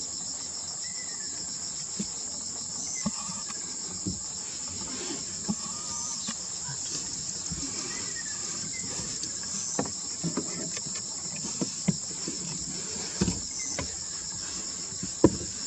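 Steady high insect chorus, with a faint falling call of a Ryukyu ruddy kingfisher recurring every few seconds. Occasional short low thumps, the loudest near the end.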